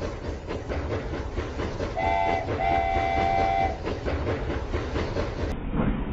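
Rail King remote-control toy train running along its track with a steady clattering rumble, sounding its whistle twice about two seconds in: a short toot, then a longer one.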